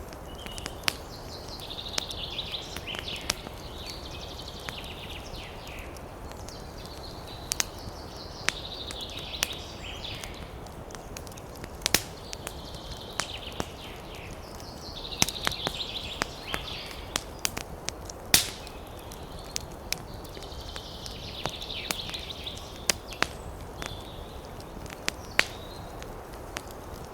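Wood fire crackling, with irregular sharp pops and snaps over a steady low rumble. Every few seconds a higher hissing patch rises for a couple of seconds.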